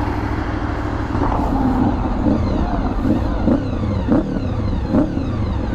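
Motorcycle engine running just after starting: a steady low idle, with the pitch rising and falling several times, like light throttle blips.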